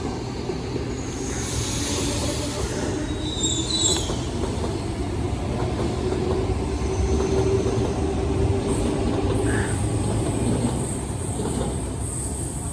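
Electric suburban passenger train moving through the station, with a steady rumble from the wheels on the rails. High wheel squeals sound about three to four seconds in and again in the last few seconds.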